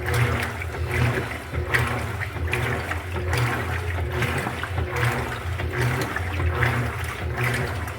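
Electrolux LED14 washing machine in its wash cycle: a steady motor hum under water swishing and sloshing that swells and falls about once a second as the load is churned.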